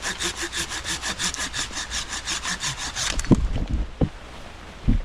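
Hand saw cutting through a pine branch stub with fast, even back-and-forth strokes, about five a second, that stop about three seconds in. A few dull thumps follow as the cut piece comes away.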